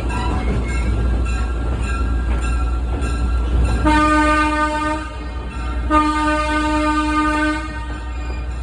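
A 75-ton locomotive sounding its horn twice over the steady rumble of the running train. The first blast is short, about four seconds in; the second is longer, starting about two seconds later.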